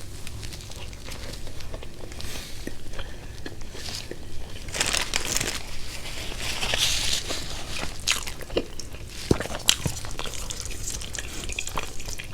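A person eating close to the microphone: crunchy bites and chewing, with some crinkling of food packaging.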